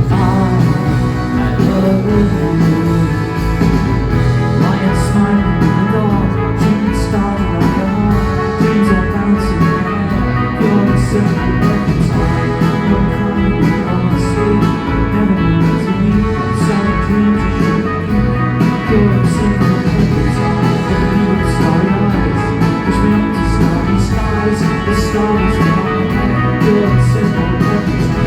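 Live rock band playing on electric guitars, bass and drums through a loud PA, in an instrumental passage without vocals, with a steady drum beat.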